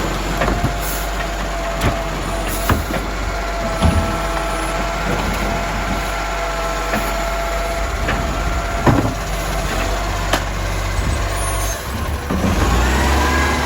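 Garbage truck running with a steady whine over the engine, broken by several sharp knocks and bangs. Near the end the engine note rises and then falls away.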